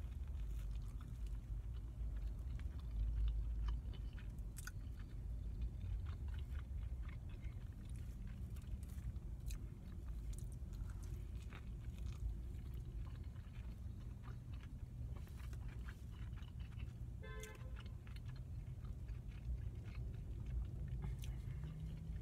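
A person biting into and chewing a soft rib sandwich soaked in barbecue sauce, with many small mouth clicks over a steady low hum.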